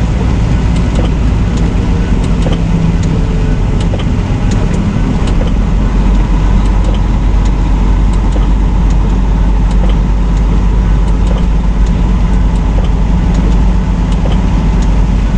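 Semi truck driving: a steady, loud low engine drone with road noise and scattered faint ticks.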